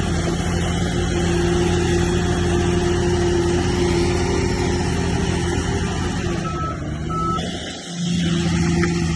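Heavy earthmoving machine's diesel engine running steadily. Two short high beeps come about two-thirds of the way through, and the engine sound dips briefly near the end before returning.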